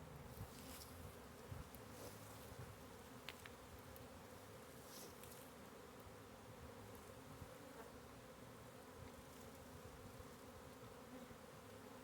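A honey bee swarm humming: a faint, steady drone of many bees, with a few faint rustles in the first few seconds.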